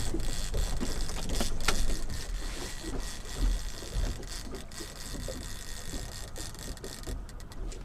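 Fishing reel being cranked in fast, a steady mechanical whirring with rapid fine clicks that stops abruptly near the end, over a low rumble. The angler is working in what he took for a fish on the line, which turns out to be a false alarm.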